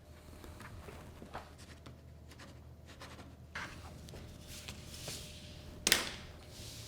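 Faint rustling and light scratchy clicks, with one sharper click about six seconds in.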